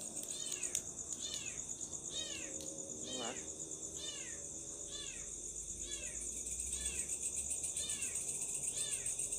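Night insect chorus with a steady high, fine-pulsed buzz. Over it an unidentified animal gives short downward-sweeping chirps at an even pace, about one every 0.6 s. Around two to three seconds in comes a brief lower, drawn-out call that rises in pitch at the end.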